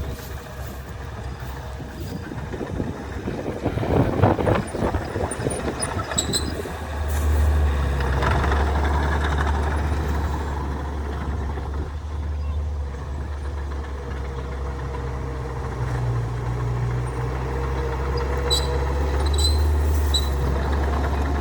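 Heavy diesel earthmoving machine running steadily under load, louder from about seven seconds in, with a rattling burst about four seconds in and a few short high squeaks near the end.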